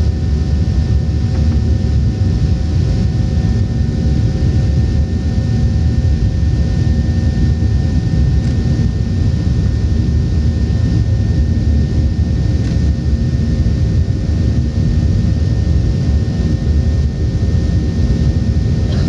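Steady cabin noise inside a Boeing 737-800 in flight: a deep, even rumble from its CFM56-7B turbofan engines and the rushing air around the fuselage, with a few faint steady tones above it.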